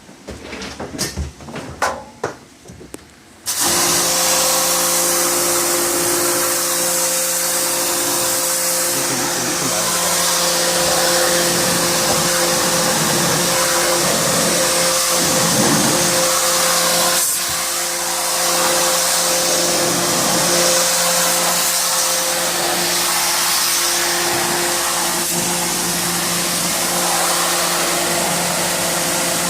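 A few knocks and clicks, then an electric cleaning machine switches on about three and a half seconds in and runs steadily: a motor hum in a few fixed tones under a strong hiss of air or spray.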